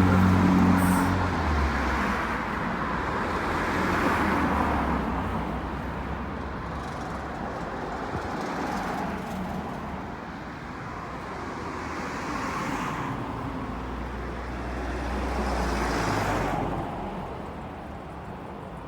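Road traffic: several vehicles pass one after another, each swelling and fading away, with a low engine hum for the first second or two.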